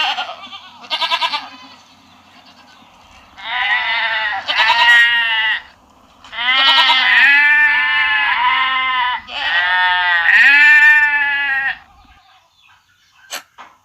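Goats bleating: a short bleat about a second in, then three long, loud, wavering bleats one after another, with a few faint clicks near the end.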